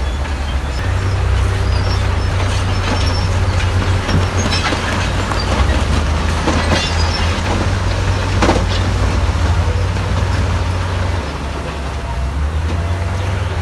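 Bulldozer's diesel engine running steadily under load, with metallic clanks and rattles of heavy machinery over it, a few louder ones in the middle. The engine eases off a little near the end.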